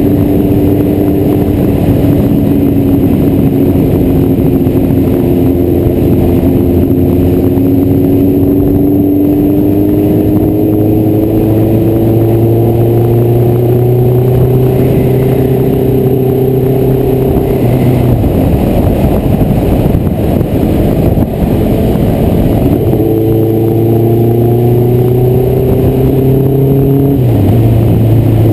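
Honda CBR1100XX Blackbird's inline-four engine pulling under way, heard from an onboard camera with a dense rush of wind noise. The engine pitch climbs slowly, drops sharply about two-thirds of the way in, climbs again, then drops once more just before the end.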